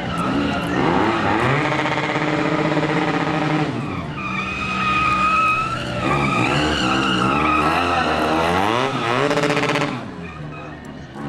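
Motorcycle engine revved hard and held high, pitch rising and falling repeatedly, with a high wavering squeal from about four to six seconds in. The sound drops back near the end.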